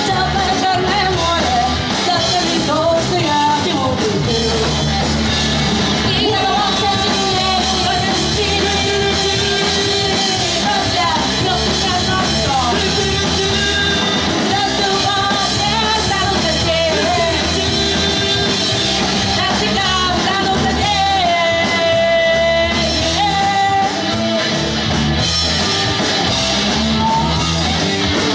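Live pop-punk band playing a rock song, with a lead singer over drums and electric guitars, heard in a large room.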